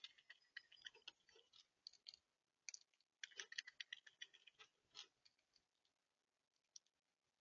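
Irregular taps and clicks of birds pecking at seed on a bird feeder close to the microphone, in two busy flurries that thin out near the end.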